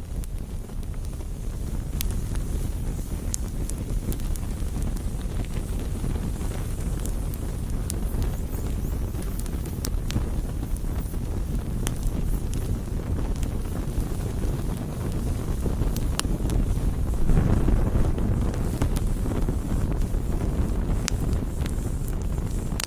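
Campfire burning: a steady low rumble with scattered sharp crackles and pops from the burning wood, swelling briefly louder about seventeen seconds in.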